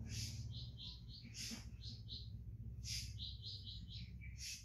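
Small birds chirping in quick runs of short, high-pitched notes, with a few louder, sharper calls, over a steady low hum.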